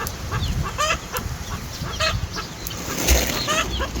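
Small flock of bantam chickens clucking, with many short, quick calls scattered throughout. A low rumble comes in about three seconds in.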